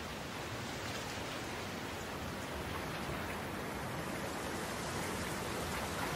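Steady, even rain-like noise with no speech or tune.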